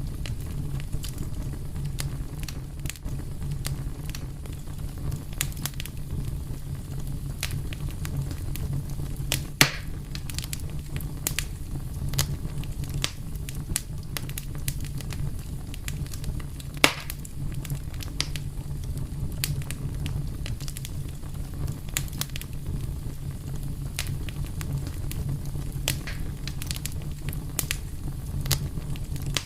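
Wood fire crackling steadily over a low rumble, with frequent small snaps and two sharper, louder pops, about a third of the way in and just past halfway.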